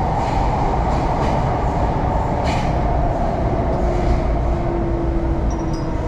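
MTR R-Train electric multiple unit running along the East Rail line, with a steady dense rumble of wheels and running gear. Faint ticks come at intervals, and a faint steady hum comes in about two-thirds of the way through.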